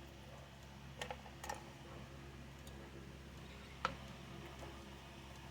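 A few light clicks and taps of small chainsaw parts and tools being handled: a cluster of three about a second in and one sharper click near the end, over a steady low hum.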